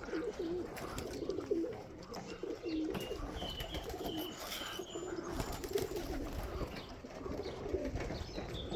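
Domestic pigeons cooing over and over, with a few short high chirps about three to five seconds in.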